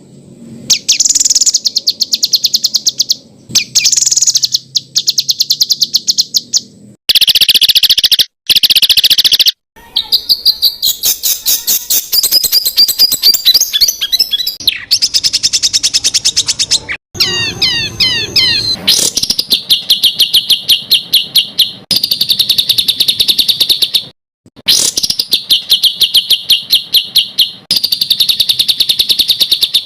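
Songbird song made of very fast, evenly repeated high notes, in rapid-fire stretches of one to four seconds that start and stop abruptly. A run of quick falling whistles comes near the middle.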